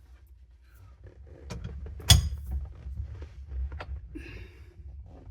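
Metal tools being handled, with scattered clinks and knocks and one sharp metallic clank about two seconds in, over a low steady rumble.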